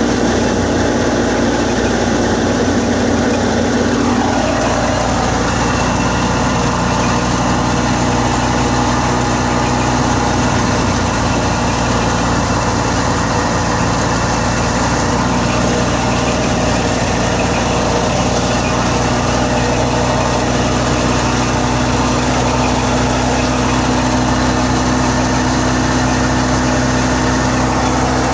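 Wheat thresher and its driving engine running steadily under power, with a higher whine that drops in pitch about four seconds in.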